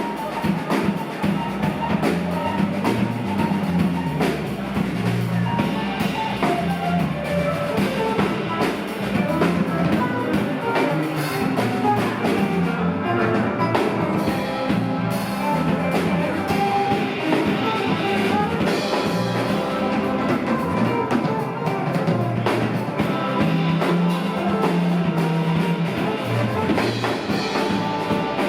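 Live rock band playing an instrumental passage, with drum kit, guitar and bass.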